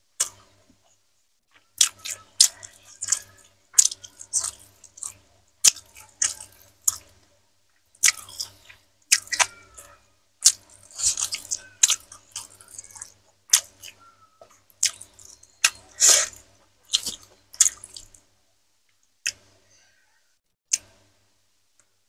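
Close-up mouth sounds of eating fried chicken, rice and boiled cassava leaves by hand: wet chewing with frequent sharp lip smacks and clicks. They thin out to a few isolated smacks about three-quarters of the way through.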